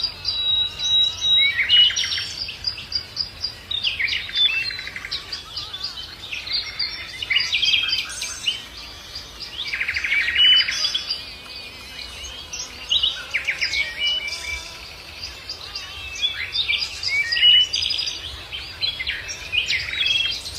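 Songbirds singing, with busy, high, quickly varying phrases and trills that come in bursts every few seconds, several birds overlapping.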